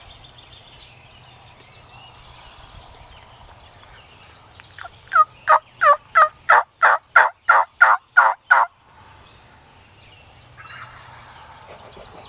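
Wild turkey yelping: a loud series of about a dozen evenly spaced notes, about three a second, lasting some four seconds.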